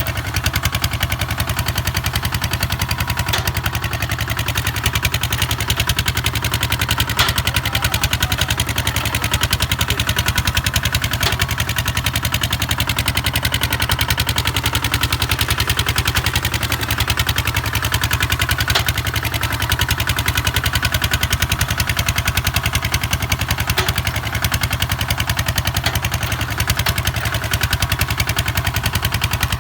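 Kubota ZT 155 DI single-cylinder diesel engine running steadily with a rapid, even thump.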